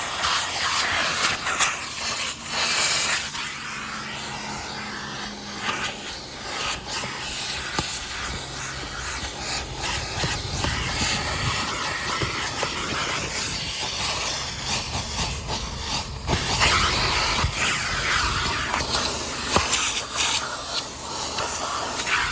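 Vacuum cleaner running in a car interior: a steady rushing hiss of suction over a faint low motor hum, the airflow changing in tone now and then as the nozzle is moved over seats and carpet.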